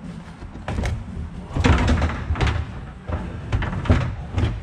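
A string of knocks, bangs and scraping as a shipping crate holding a replacement engine is opened and its lid or sides are moved. The loudest knocks come about two seconds in and again near the end.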